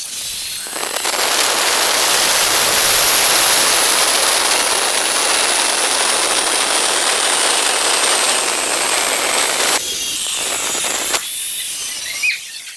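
Angle grinder running with a high whine that sinks slowly in pitch as its disc cuts through tile. The cutting hiss is loud from about a second in and drops away just before ten seconds.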